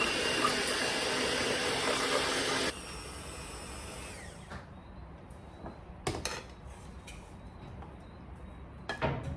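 Russell Hobbs electric hand mixer beating eggs into a butter and sugar mixture, its motor running steadily and then switched off suddenly about a third of the way in. After that, a few short clicks and knocks.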